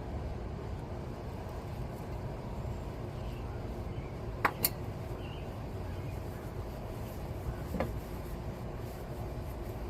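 Steady low rumble, with two sharp clicks close together about four and a half seconds in and a fainter click near eight seconds.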